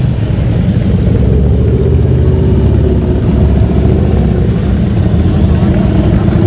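Loud motor vehicle engines running, a steady low rumble with a faint tone that drifts slightly in pitch.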